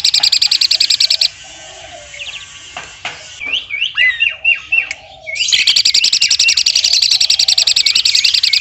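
Asian pied starling (jalak suren) giving its woodpecker-imitation 'shots': a loud, very fast rattle of sharp notes that breaks off about a second in. A few short chirping calls follow, and the rattle starts again about two-thirds of the way through.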